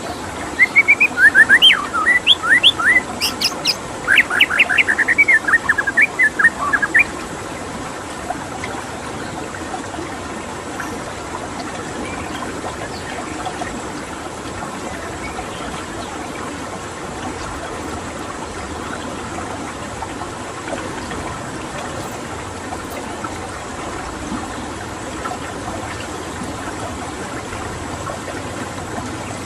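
White-rumped shama (murai batu) singing a quick run of varied whistled notes for the first seven seconds or so, over steady running water. The water carries on alone after the song stops.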